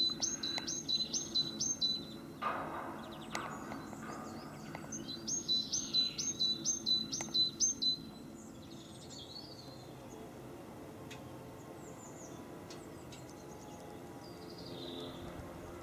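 A songbird singing a quickly repeated high two-note phrase, about six or seven times in a row, at the start and again about five seconds in. Fainter scattered chirps of other birds follow, over a steady low background hum.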